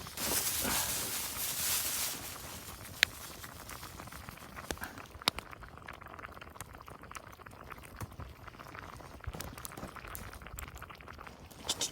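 A pot of udon stew simmering and bubbling on a camp stove. A louder rushing hiss runs for the first two seconds, and a few sharp clicks come later.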